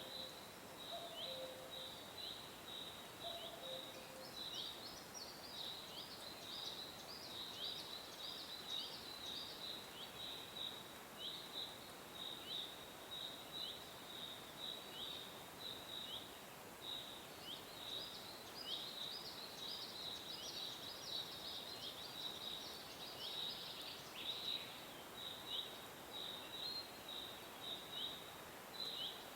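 Small birds chirping continuously: a rapid run of short, high chirps that flick downward, several a second, with higher twittering notes joining in twice. A few faint low calls sound in the first few seconds.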